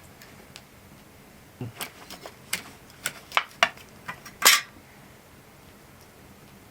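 A run of about a dozen sharp clicks and clinks over some three seconds, the loudest near the end, from a knife and metal camp gear handled while slicing fungus for char cloth.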